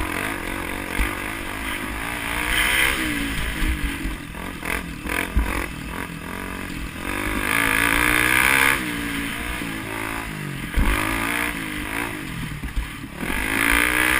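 A vehicle engine running hard, its pitch rising and falling several times as it revs up and backs off, with a short spell of clattering knocks partway through.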